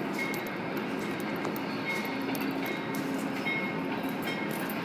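Amtrak passenger train rolling past at a distance: a steady rumble of wheels on rail, with faint short high tones coming and going.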